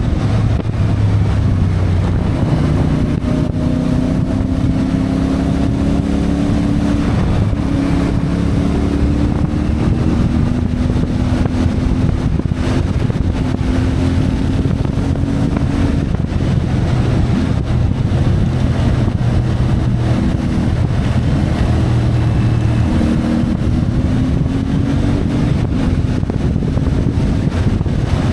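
CFMoto 450MT motorcycle's parallel-twin engine running while riding, its pitch drifting slowly up and down with the throttle, with wind noise on the microphone.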